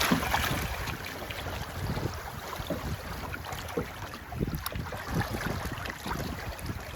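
Wind buffeting the microphone aboard a sailboat under way, with irregular low rumbling gusts over a steady rush of wind and water. It is a little louder in the first second.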